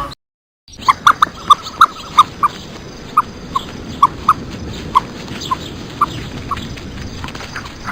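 A dog, likely a puppy, giving short high-pitched yips and whimpers, about two a second, starting after a brief silence.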